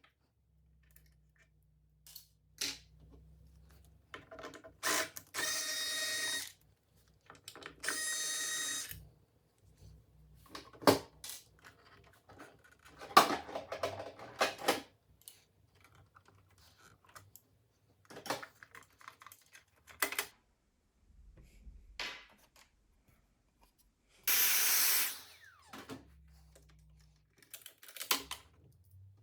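Scattered clicks and knocks of small tools and parts being handled while a sewing machine is repaired, with three short bursts of a whirring small motor, each lasting one to two seconds.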